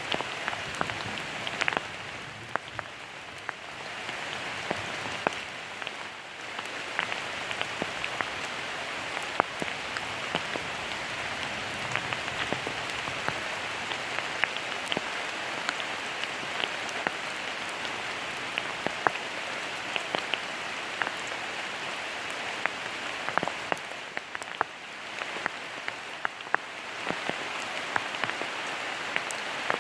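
Steady rain falling, with many individual drops pattering close by, easing a little now and then.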